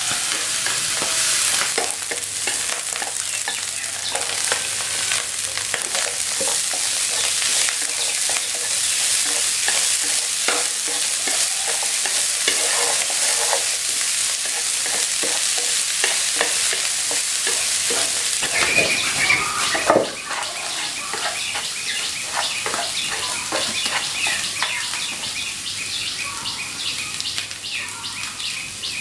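Food sizzling in a hot frying pan, with scattered clicks as it is stirred; the sizzle drops a little in level about twenty seconds in.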